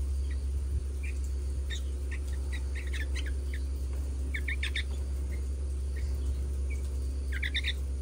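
Fledgling bulbuls giving short, high chirps, some singly and some in quick runs of several, over a steady low hum.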